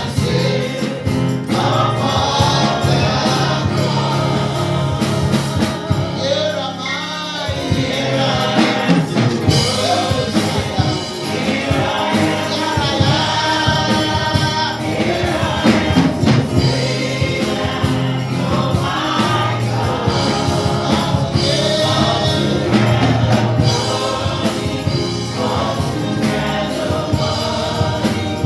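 Gospel praise music: a choir singing over a band with bass and a steady beat.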